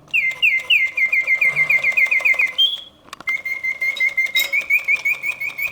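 Vintage Reuge double singing bird cage's bellows-driven whistle singing mechanical birdsong: a run of quick falling chirps, a short held note, a brief pause about three seconds in, then a fast steady trill. The freshly serviced mechanism works as it should.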